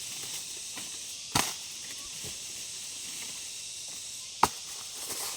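Two sharp chopping strikes about three seconds apart, as of a blade cutting into bamboo shoots, over a steady high hiss.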